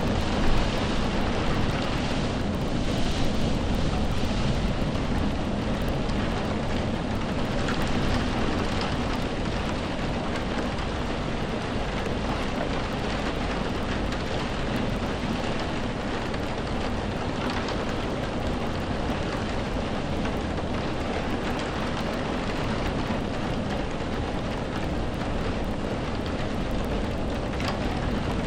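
Steady rainfall, an even hiss of drops with a constant low rumble underneath.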